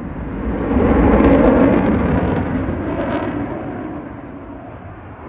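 Fighter jet flying past at an air show: its engine roar swells to a peak about a second in, then fades away over the next few seconds.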